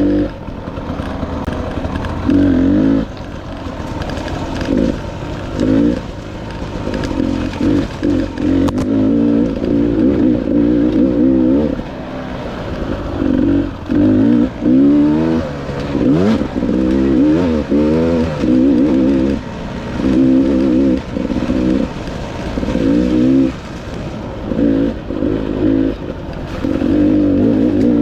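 Dirt bike engine being ridden, revving up and down as the throttle is opened and shut every second or two, with quick rising and falling sweeps in pitch around the middle.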